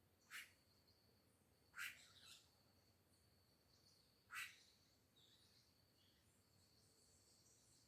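Birds calling: three short, sharp calls about two seconds apart, over a faint steady high insect-like drone and soft chirping.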